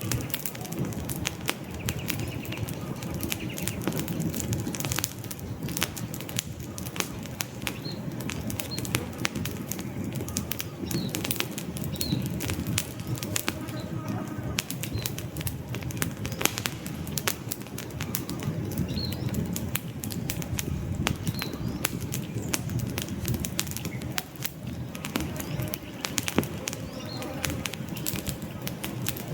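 Wood campfire burning: dense, irregular crackling over a steady low rumble of flames. Faint short bird chirps come now and then through the middle stretch.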